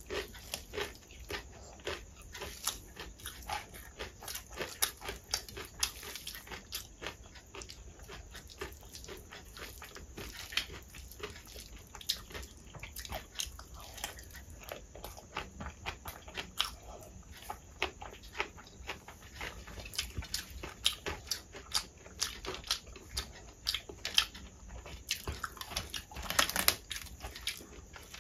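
Close-up eating sounds: wet chewing, lip smacks and crunching of mouthfuls of rice mixed by hand with crispy shoestring potato fry, as a rapid, irregular run of short clicks and smacks. Fingers mixing the rice on a steel plate add soft squelches, with one longer, louder sound about 26 seconds in.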